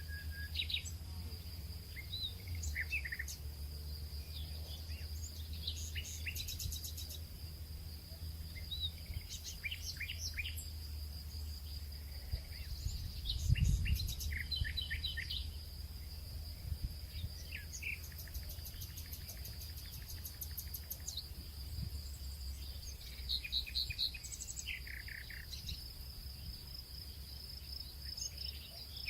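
Nature ambience of many birds chirping and calling in short scattered phrases over a steady high insect or cricket drone, with a low steady rumble underneath. A low thud comes about halfway through.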